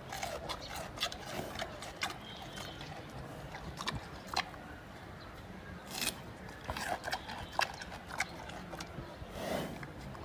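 Giant panda chewing bamboo: irregular crunching with sharp cracking snaps as the stalks break.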